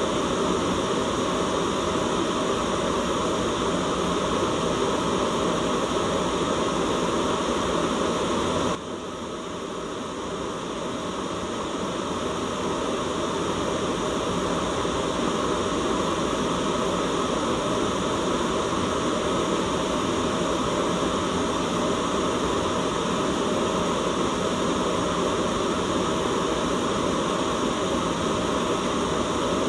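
Steady white-noise hiss that drops suddenly about nine seconds in, then rises back to full level over the next few seconds.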